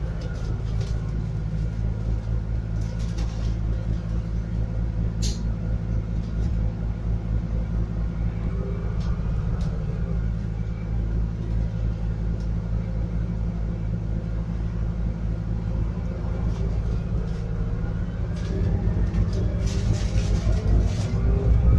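Scania N280UD double-decker bus with a biogas engine, heard from inside the cabin while under way: a steady low engine and road rumble. It grows louder over the last few seconds, and a single sharp click comes about five seconds in.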